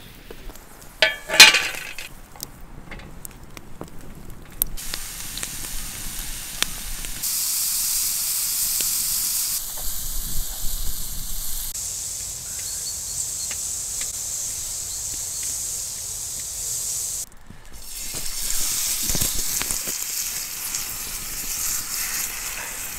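Food frying in a pan over a wood campfire: a steady high sizzling hiss that comes in several cut segments. About a second and a half in there is a loud metal clank.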